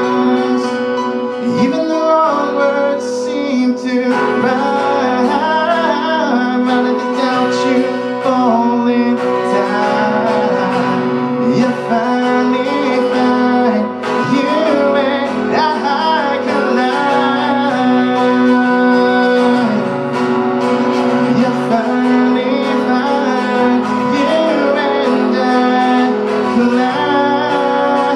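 Acoustic guitar strummed with a voice singing over it, a live song played without a pause.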